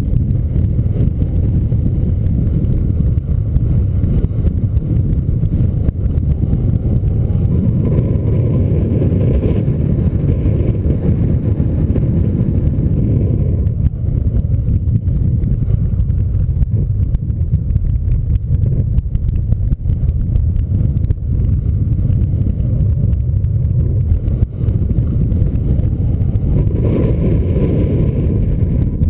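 Strong wind buffeting the microphone: a loud, steady low rumble that eases a little around the middle and picks up again near the end.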